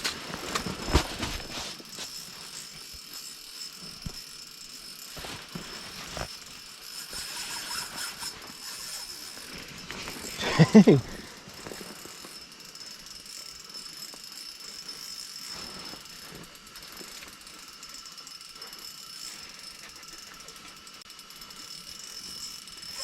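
Fishing reel ratcheting and clicking as line is reeled in and pulled out against a big fish, which soon snaps the line. There is one short loud burst about eleven seconds in, and a faint steady high whine throughout.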